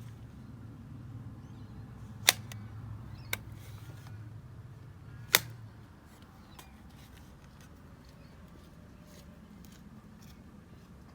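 Three sharp clicks, at about two, three and five seconds in, over a low steady hum that stops soon after the last click, leaving faint background.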